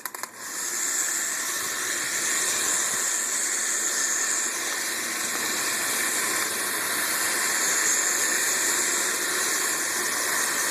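Battery-powered Jakks Pacific Power Trains DragonBullet toy engine, running on 2 AAA cells, driving its coupled cars around plastic track: a steady, even whirring hiss of its small motor, gears and wheels that starts just after the beginning.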